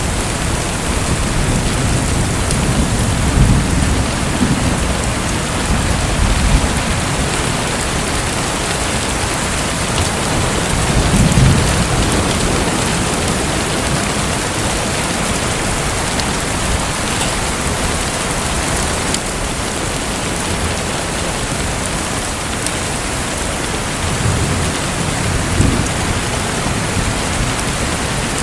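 Steady hiss of falling, splashing water like heavy rain, with low rumbles swelling up three times: a few seconds in, about eleven seconds in, and near the end.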